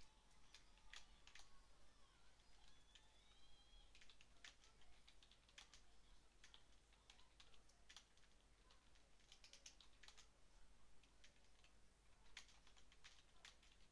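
Faint computer keyboard typing: irregular keystroke clicks, with quicker runs of keystrokes about two-thirds of the way through and near the end.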